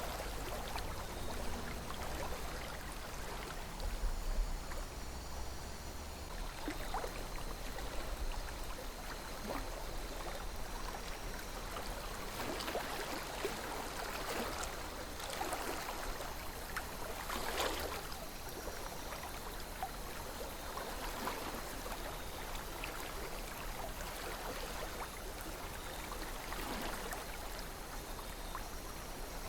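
River water flowing steadily, with small gurgles and splashes standing out every few seconds.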